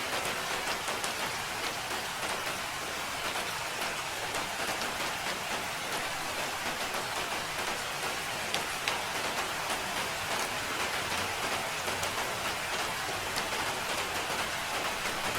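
Steady rain falling: a dense, even hiss with many small drop ticks.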